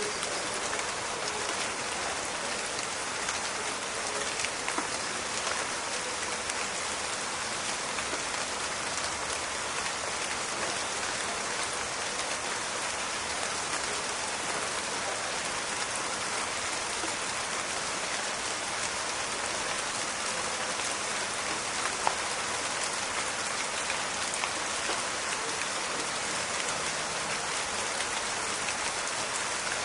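Steady rain falling, a dense even patter of drops with scattered sharper drip clicks, one louder drop about 22 seconds in.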